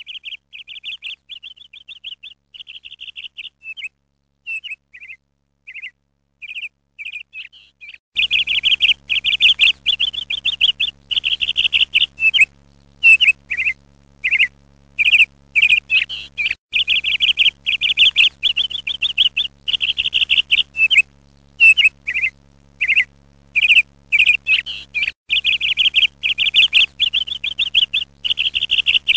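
A bird chirping in short repeated calls, sparse at first, then louder and much denser from about a third of the way in, with a steady low hum underneath.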